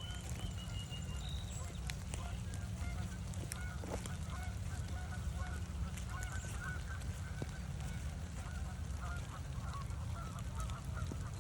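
Canada geese honking repeatedly in a long run of short calls, over a steady low rumble of wind on the microphone.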